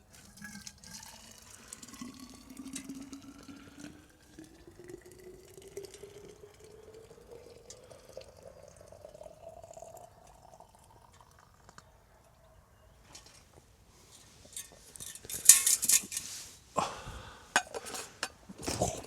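Water being poured into a vessel, its note rising steadily for about ten seconds as the vessel fills. A few seconds before the end come loud clattering knocks of pots and utensils.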